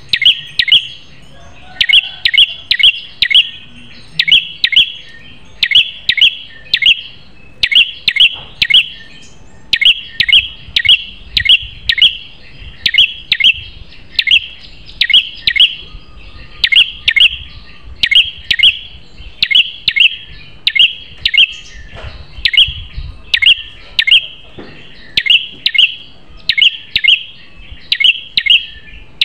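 Prenjak kepala merah, a small prinia-type songbird, calling loudly and insistently: sharp, high chirps in quick clusters of three to five, repeated about once a second without a break.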